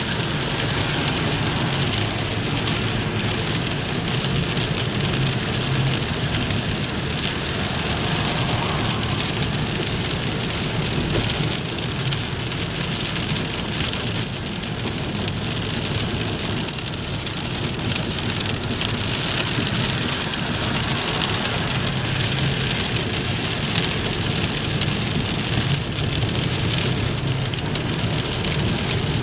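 Steady heavy rain falling and splashing on surfaces, recorded on an iPod Touch's built-in microphone.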